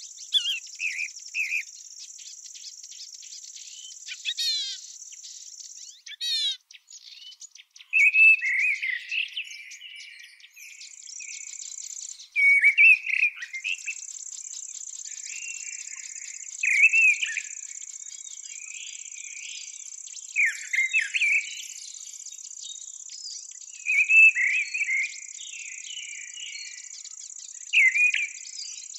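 Field insects trilling continuously at a high pitch, dropping out briefly twice, while a songbird sings short phrases every few seconds; the bird phrases are the loudest sounds.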